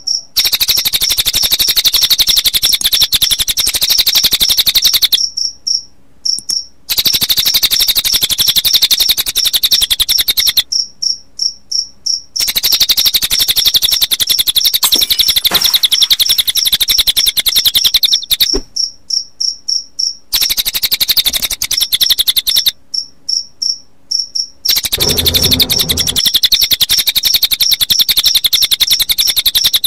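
Cricket chirping mixed with cililin bird calls in a songbird-training recording: long bouts of a dense, very fast high trill lasting a few seconds each, broken by short pauses filled with quick repeated high pips. A brief low rumble comes in about five seconds before the end.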